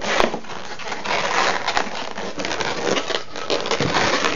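Latex twisting balloons rubbing against each other and the hands as they are twisted and tied off: a continuous scratchy rustle of many short strokes.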